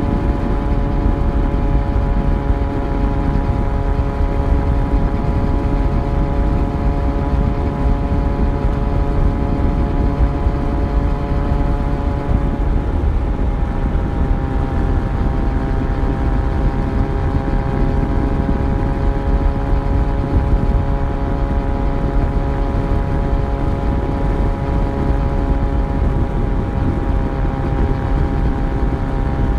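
Yamaha FZ1's inline-four engine running at a steady cruise under way, over a dense rumble of wind and road noise. A little before halfway the engine note drops slightly and holds at the lower pitch.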